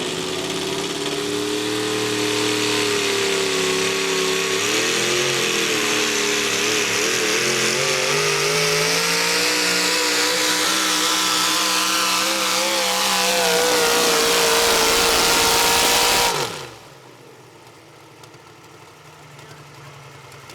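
Modified 4x4 pulling truck's engine running flat out down the track against the sled, its pitch wavering and climbing as it pulls. The engine sound cuts off abruptly about three-quarters of the way through.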